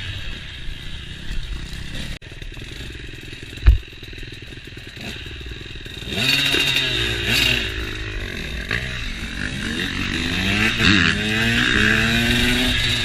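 KTM motocross bike engines revving up and down through the gears while riding, with one sharp loud thump about three and a half seconds in. The engines are quieter for the first half and louder with repeated rising and falling revs after that.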